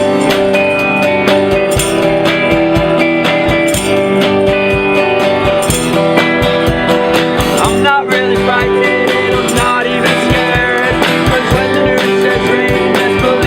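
Live band playing an instrumental passage, with guitar and a steady beat.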